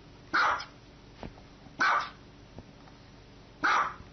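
A small dog barking: three sharp single barks, evenly spaced about a second and a half to two seconds apart.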